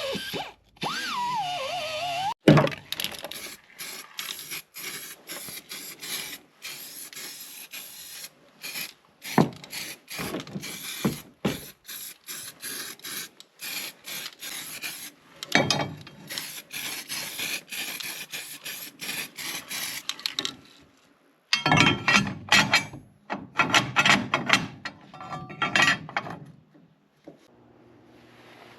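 Rough rasping and scraping work noise in irregular stop-start strokes, with a sharp knock a couple of seconds in and heavier bursts about two-thirds of the way through.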